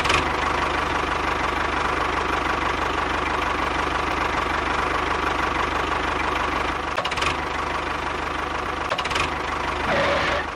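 The small engine of a DIY mini bulldozer model running steadily with a fast, even knocking pulse, with brief louder moments about seven and nine seconds in.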